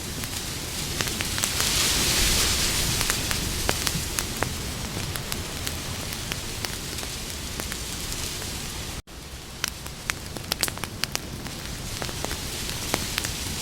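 Campfire burning with steady hissing and frequent sharp wood crackles and pops, the hiss swelling briefly about two seconds in. The sound cuts out for an instant about nine seconds in, then the crackling carries on.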